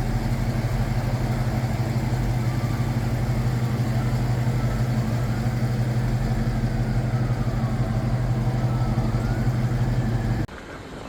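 A vehicle engine idling loudly and steadily with a deep exhaust note. It cuts off suddenly shortly before the end, and a quieter sound follows.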